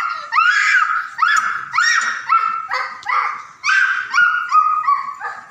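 An animal calling over and over in short, high-pitched yelps, about two a second, each one rising and then levelling off. The calls stop at the very end.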